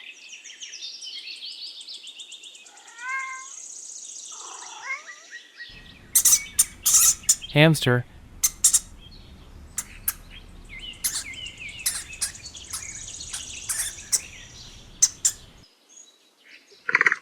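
A cat meowing for the first five seconds or so, then a hamster squeaking, with high thin chirps and sharp clicks that stop about three seconds before the end.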